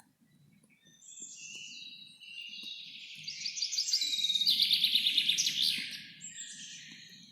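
A songbird singing a long, fast trilled song that swells to its loudest partway through and drops in pitch near the end. A faint low rumble runs underneath.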